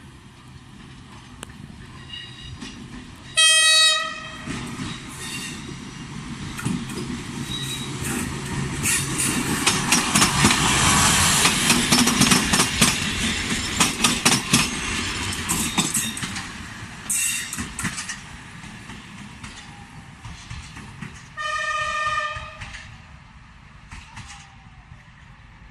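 Train horn sounding two short blasts, one about three seconds in and one a few seconds before the end. Between them a train passes, its wheels clacking over the rail joints, growing louder to a peak in the middle and then fading.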